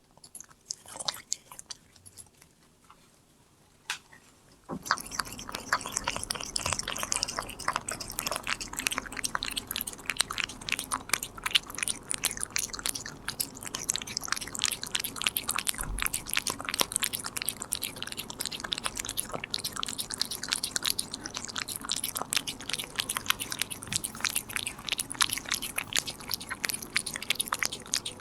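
Korean shorthair cat chewing a treat. A few quiet bites come first, then from about five seconds in, fast dense clicking chews continue without a break.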